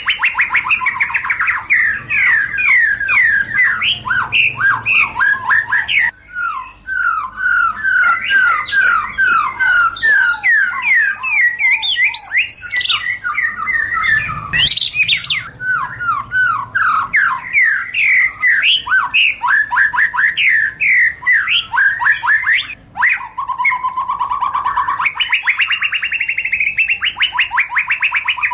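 White-rumped shama (murai batu) singing without pause: a fast, varied stream of sweeping whistles and chattering trills, with short breaks about six seconds in and again near the end.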